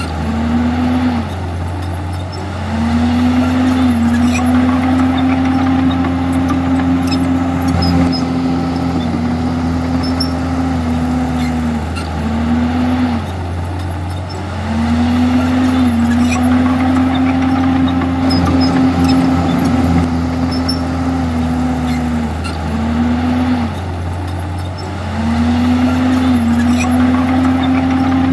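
Komatsu D51EX bulldozer's diesel engine running hard, with a steady engine note that sags briefly twice in a row and picks up again about every eleven seconds, in a repeating work cycle.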